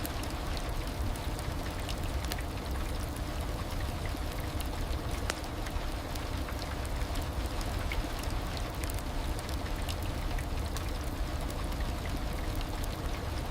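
Heavy rain falling steadily: a dense, even hiss with scattered drop clicks and a deep rumble underneath.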